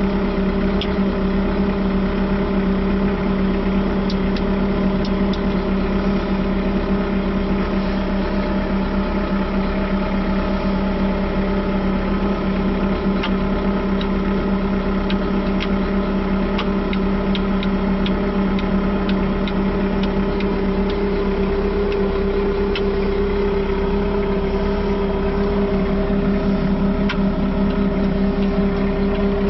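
JCB 515-40 telehandler's diesel engine idling steadily at a constant pitch, heard from inside the cab, with a few faint ticks partway through.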